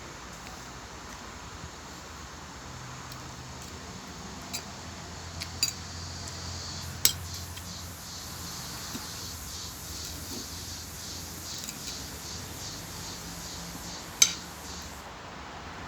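Cutlery clinking and scraping on a plate during a meal: a few sharp clinks spread out, the loudest about fourteen seconds in, over a steady background hum.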